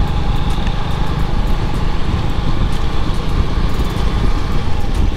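A motorcycle under way at a steady speed, its engine running under a dense low rumble of wind on the microphone, with a faint steady whine.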